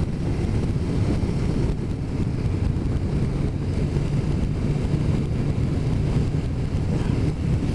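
Motorcycle engine running at a steady cruise, under a steady rush of wind noise on the microphone.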